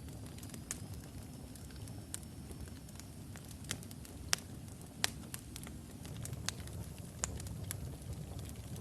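Wood logs burning in a fireplace: a steady low rumble of flame with scattered sharp crackles and pops, the loudest two about halfway through. A faint thin high whistle sounds over the first few seconds.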